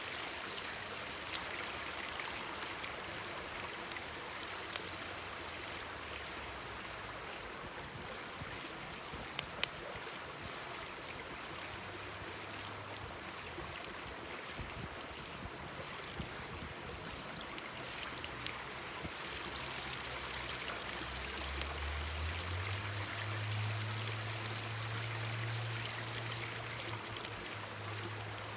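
Mountain stream babbling steadily, with now and then a sharp pop from a crackling wood campfire. A faint low hum comes in during the last few seconds.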